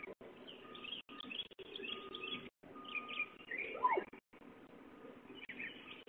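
Songbirds chirping and calling, heard through a home security camera's microphone that cuts off everything above the middle of the range. The sound drops out completely for a moment several times.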